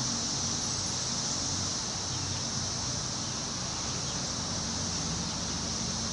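Wind rustling through the leaves of forest trees, with a steady, high-pitched insect drone over it and a low rumble underneath.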